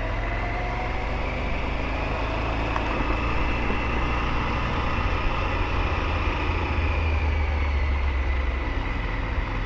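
Triumph Tiger 900 GT's three-cylinder engine running on the road, under a steady rumble of wind on the microphone. A faint rising engine note near the start.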